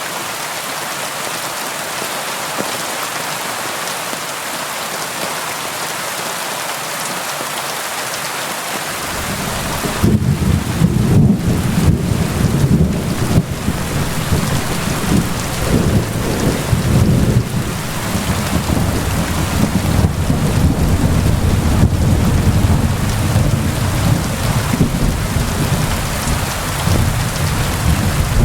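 Steady rain hiss. About nine seconds in, a long low roll of thunder begins and keeps rumbling in surges, louder than the rain.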